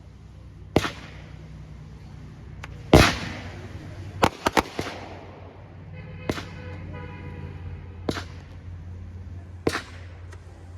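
A 200-gram consumer firework cake firing shots with sharp reports, one every second or two, with a quick triple crack about four and a half seconds in. The loudest report comes about three seconds in.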